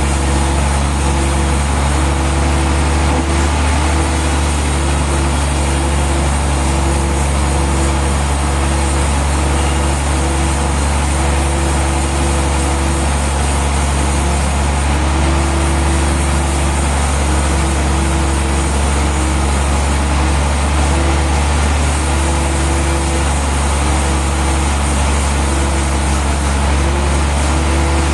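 Heavy sawmill machinery running steadily: a deep, constant engine drone with a higher hum that keeps cutting in and out.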